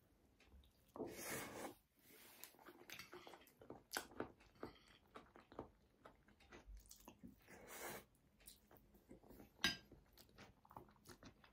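Faint chewing and crunching of a mouthful of salad, with scattered sharp clicks; the sharpest click comes a couple of seconds before the end.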